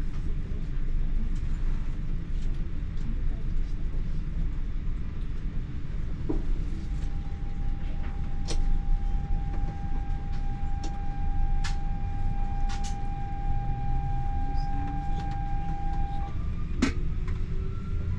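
TER regional train running, heard from inside the carriage: a steady low rumble with a few sharp clicks and knocks. A steady whine holds through the middle, and near the end a rising whine sets in.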